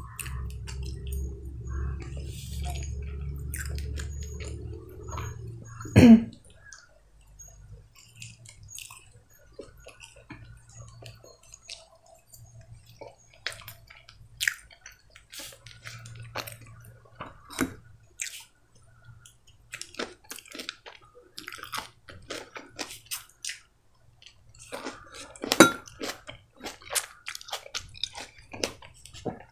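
Close-up eating sounds: mashed potato chewed with short wet mouth clicks and smacks, and a fork clicking against the dishes near the end as salad is picked up. A low steady hum for about the first six seconds stops with a brief loud sound.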